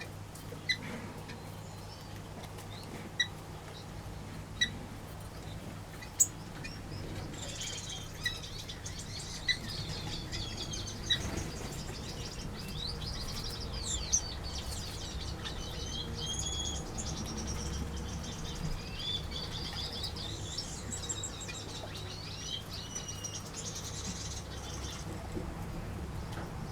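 Small aviary birds (finches, waxbills and parrots) calling: single sharp call notes every second or two, then from about seven seconds in a busy twittering chatter that carries on until near the end.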